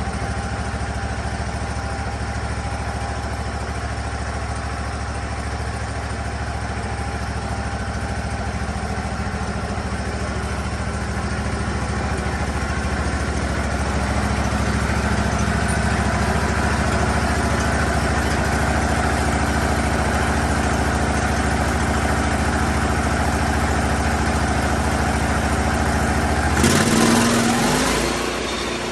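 Lucas Mill 10-30 swing-blade sawmill's engine running steadily, growing louder about halfway through. Near the end comes a sudden, brief, louder burst of noise as the engine note falls and settles lower.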